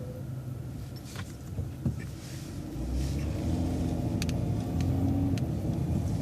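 City transit bus engine heard from inside the cabin, idling and then pulling away, its note growing louder and steadier about three seconds in. A few light clicks and rattles sound over it.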